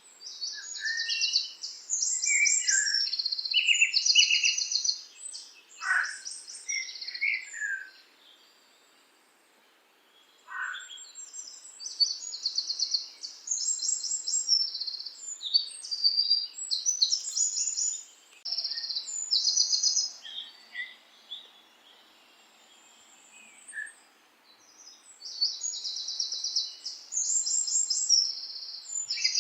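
Songbirds singing: bouts of fast, high trilled phrases lasting several seconds, with a few lower falling notes mixed in, broken by short lulls.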